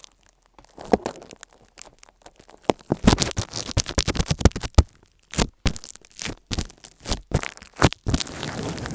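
Earphones rubbed and scratched right against the microphone: irregular crackling scrapes and sharp clicks, sparse for the first few seconds, then coming thick and fast from about three seconds in.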